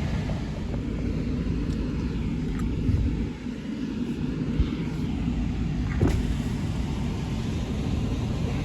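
Heavy farm machinery engine running steadily, with a few brief knocks.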